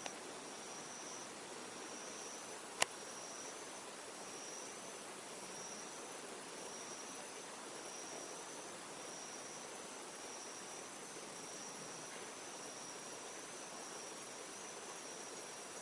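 A high-pitched insect trilling over and over, in phrases about a second long with short breaks between them, against a faint steady hiss. A single sharp click sounds about three seconds in.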